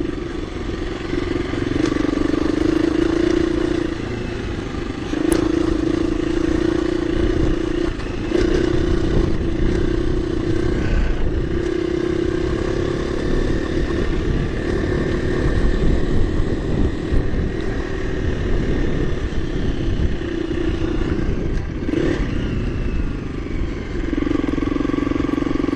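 KTM 350 EXC-F dirt bike's single-cylinder four-stroke engine running while riding along, its note easing off and picking up again several times, over a steady rumble of noise from the ride.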